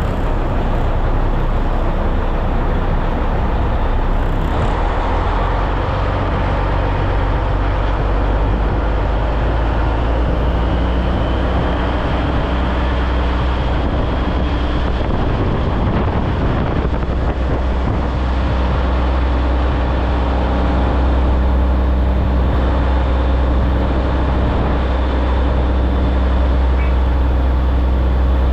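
Heavy diesel truck engine running steadily, a loud, even low drone whose tones shift slightly a couple of times.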